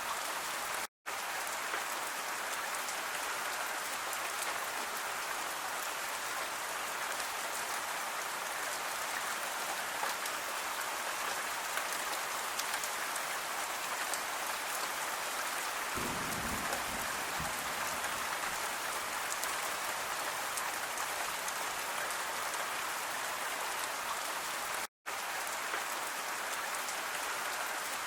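Steady rain falling, an even hiss of many drops. About two-thirds of the way through a brief low rumble comes in under it, and twice the sound cuts out for an instant.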